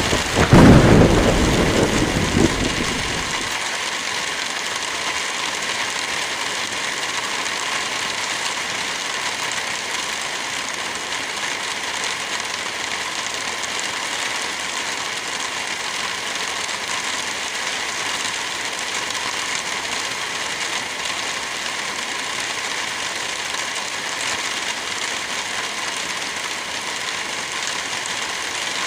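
Steady rain with a single loud thunderclap right at the start that rumbles for about three seconds and fades.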